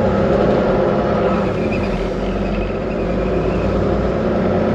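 Diesel engine of a Volvo VNL 860 semi truck running steadily, heard from inside the cab with road and wind noise.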